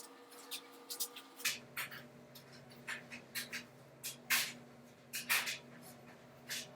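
Irregular, short scratchy rustles of coily natural hair rubbing under the fingers as twists are untwisted.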